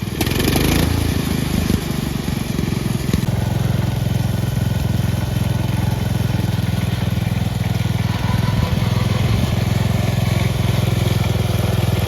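Cub Cadet garden tractor's engine running steadily under load, with a brief surge of harsher noise in the first second.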